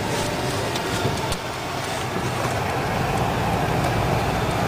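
Steady car cabin noise from a car driving on a snowy highway: engine and tyre noise, slowly growing a little louder, with a few light ticks.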